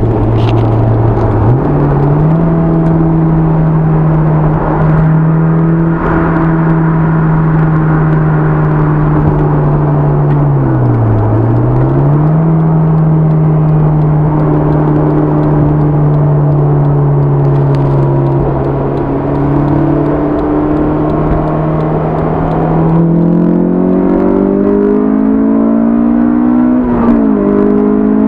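Honda S2000's four-cylinder engine with a Milltek dual exhaust, heard from inside the cabin with the top up while cruising at highway speed: a steady engine hum over road noise, with no exhaust drone. Its pitch steps up slightly early on, dips and recovers once midway, and climbs over the last few seconds with a short dip as the car accelerates.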